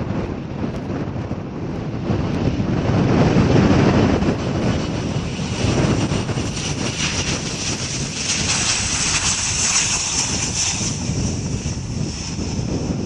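Airliner's engines passing by, a loud rumble that swells about three to four seconds in, followed by a high hissing roar later on. Wind buffets the microphone.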